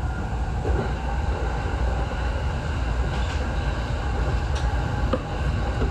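Electric commuter train (Tokyo Waterfront Area Rapid Transit 70-000 series) running along the line, heard from inside the front car: a steady low rumble with a few faint clicks.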